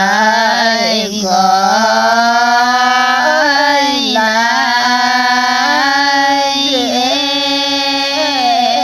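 A single voice singing slow, long-held notes that dip and slide every couple of seconds, with crickets chirping in a steady high band behind.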